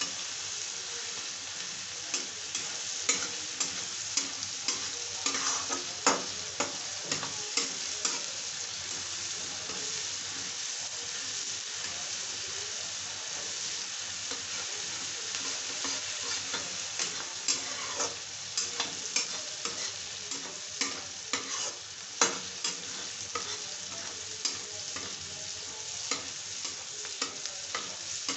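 Chopped onion, tomato and green chilli sizzling steadily in oil in a kadhai while a metal spatula stirs and scrapes them, its strikes on the pan giving frequent sharp clicks: the tadka masala for dal being fried.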